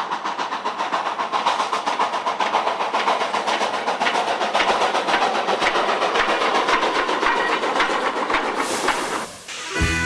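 Train running along the rails with a fast, even clickety-clack over a steady rumble. A burst of hiss comes about 8.5 s in, the train sound drops away, and music starts at the very end.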